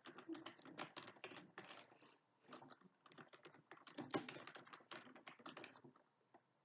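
Computer keyboard typing in quick runs of keystrokes, with a short pause about two seconds in and the typing dying away near the end.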